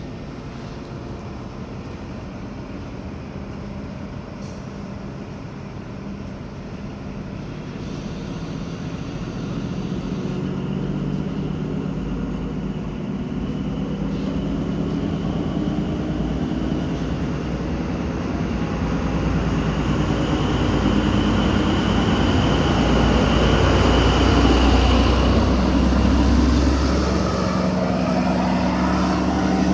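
Diesel passenger train pulling away from the station, its engine running and growing steadily louder. A deep rumble builds from about halfway through and is strongest near the end.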